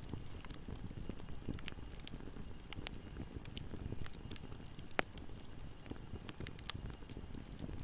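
Wood fire burning with a low steady rumble and scattered sharp crackles and pops, two louder pops about five and six and a half seconds in.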